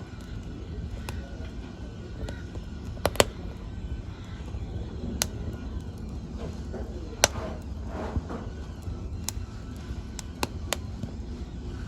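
Wood fire in a fireplace crackling over a low steady rumble, with sharp pops scattered through it, the loudest about three seconds in and again about seven seconds in.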